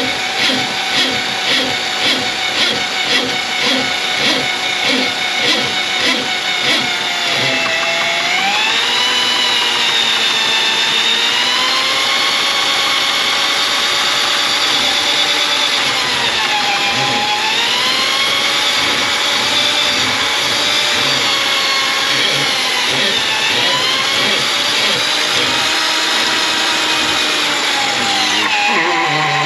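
Electric drain-cleaning machine running on a plugged kitchen sink drain. A pulsing beat of about two a second for the first seven seconds gives way to a steady motor whine whose pitch dips and recovers several times.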